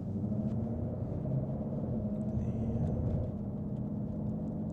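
Chevrolet Corvette C8 Z06's V8 running steadily at low revs, a low, even drone with no revving.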